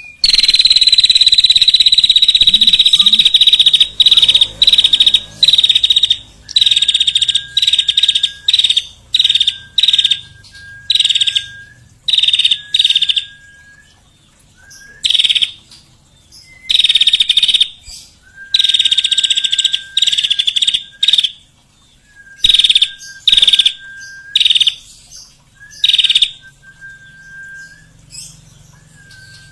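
Small songbird calling: loud, high, buzzy trills in bursts of about a second, repeated over and over, alternating with short, steady, lower whistled notes.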